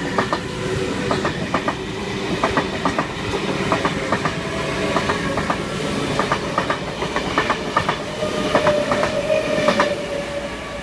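V-set double-deck electric intercity train passing through a station, its wheels clacking over rail joints in irregular clicks over a continuous rolling rumble, with a steady tone underneath.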